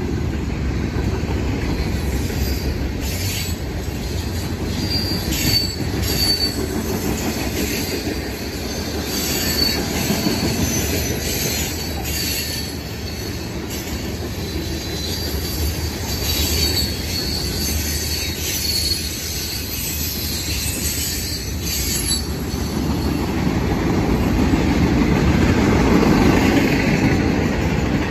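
Freight cars rolling past: a steady rumble of steel wheels on rail with clacking over rail joints and intermittent high-pitched wheel squeal, swelling louder near the end.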